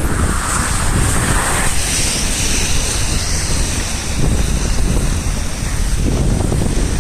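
Rain pouring down with wind buffeting the microphone: a steady rushing hiss over low, uneven rumbling gusts.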